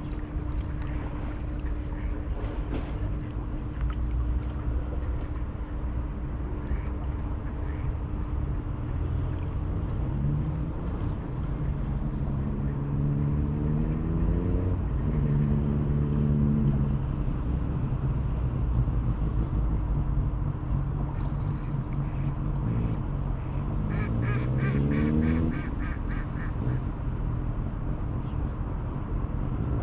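River ambience with a steady low rumble, ducks quacking, and a passing engine whose pitch rises twice, about ten seconds in and again near the twenty-fourth second, as it accelerates.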